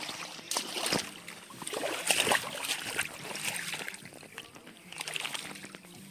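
Water splashing and sloshing in uneven surges, with a few sharp clicks.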